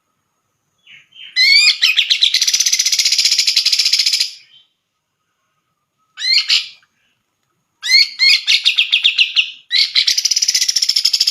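Cucak jenggot (grey-cheeked bulbul) singing loud phrases of rapid repeated notes. A long phrase starts about a second in, a short burst follows near the middle, and two more phrases run close together near the end.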